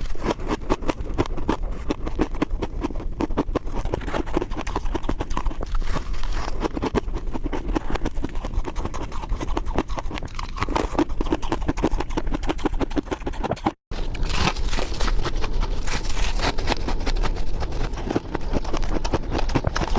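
Ice being bitten and chewed close to the microphone: a dense run of crunches, several a second, broken by a brief cut to silence about fourteen seconds in.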